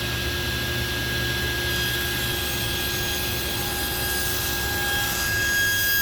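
Electric power tool motor that has just spun up and is running at a steady speed with a steady high whine over a low hum.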